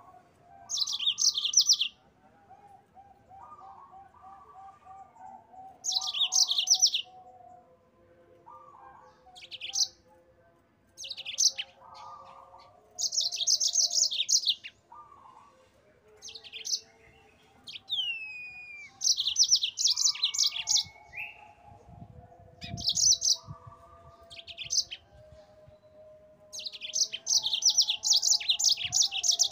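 Yellow-fronted canary (Mozambique canary) singing in repeated bursts of fast, high trills, each a second or two long with short pauses between, in a long continuous rolling song. Fainter, lower warbling phrases run underneath.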